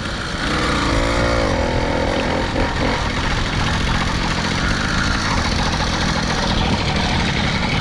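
Small motorbike engine running steadily as the bike is ridden. The bike has a newly fitted sprocket, and the rider says it has no power.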